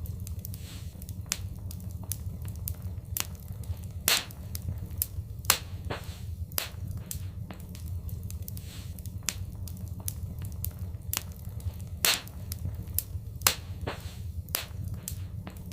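Wood fire crackling: irregular sharp snaps several times a second over a steady low rumble, with four louder pops.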